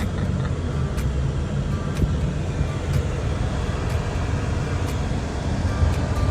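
A Mustang sports car on the move, its engine and tyres making a steady low rumble, with faint regular ticks about once a second.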